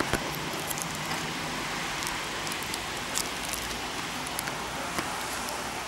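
Steady hiss of falling rain with scattered small ticks of drops.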